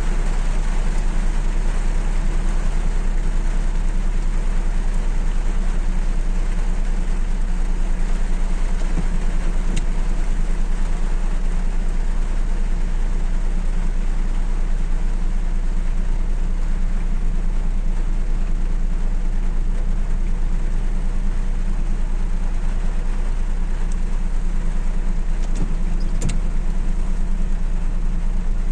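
Steady rain hissing down, with a Suzuki Mehran's three-cylinder engine idling underneath as an even low hum. A couple of faint sharp ticks sound in the middle and near the end.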